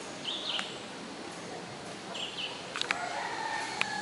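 Birds calling: short, high paired chirps repeating every second or two, with a longer, lower drawn-out call starting about three seconds in. A few sharp clicks come just before and during that call.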